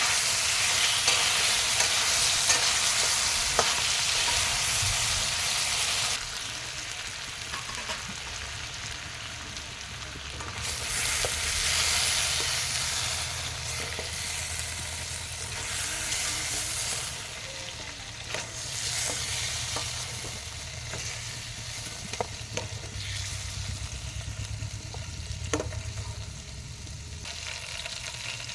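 A pan of chicken curry frying and sizzling while it is stirred, loud for the first few seconds, then quieter with a couple of swells. There are a few sharp clicks of the stirring utensil against the pan.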